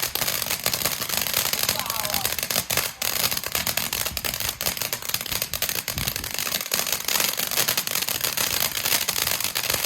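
A lit firework burning with a continuous dense crackle and hiss, a rapid stream of tiny pops.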